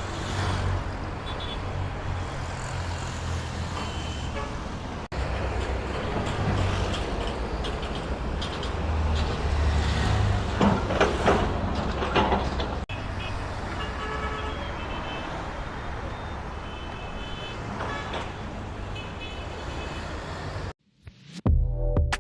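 Busy road traffic: a steady rumble of passing engines and tyres, with several short car horn toots. Music starts near the end.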